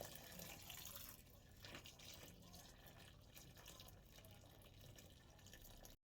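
Faint running water with drips, like a tap running into a sink; it cuts off suddenly near the end.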